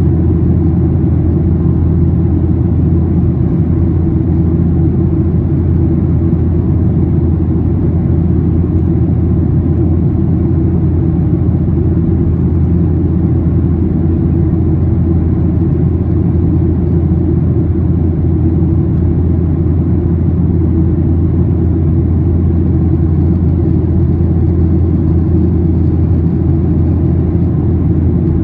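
Steady cabin drone inside a Boeing 737-800 at cruise: its CFM56-7B turbofan engines and the airflow over the fuselage give a deep, even hum.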